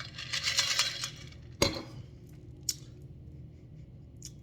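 Handling noise while eating a pastry: a crinkly rustle, then a sharp tap about one and a half seconds in and a lighter one a second later.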